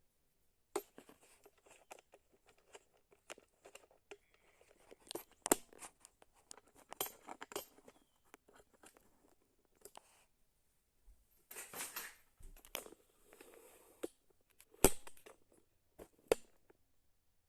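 Handling noise from parts being worked by hand during a bidet installation: irregular clicks, light knocks and rustling, with the sharpest knock about 15 seconds in.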